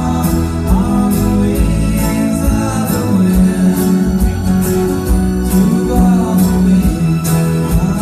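Live band playing a pop-rock song: guitar and a steady drum beat under a singing voice.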